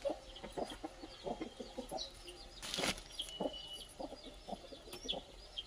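A flock of chickens clucking, many short calls overlapping, with thin high chirps among them. A brief rustling noise comes a little before the middle.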